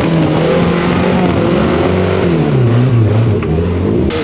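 Off-road Suzuki 4x4's engine revving, its pitch rising and falling repeatedly.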